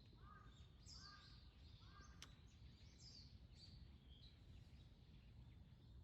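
Faint outdoor birdsong: three short calls about a second apart in the first two seconds, with scattered high chirps from small birds throughout. A steady low rumble runs underneath.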